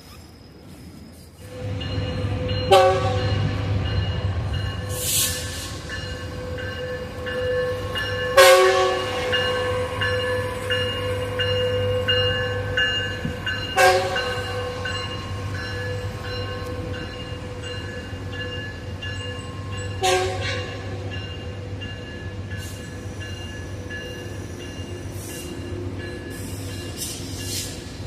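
A train moving through, starting about a second and a half in: a steady low rumble with several steady tones held over it. Four sharp clanks punctuate it, spaced about five to six seconds apart.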